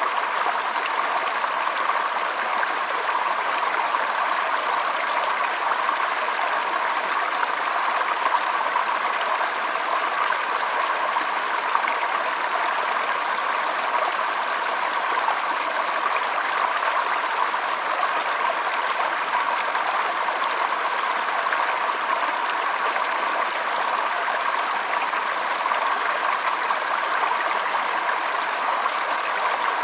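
Shallow stream flowing, a steady, even rush of water that does not change.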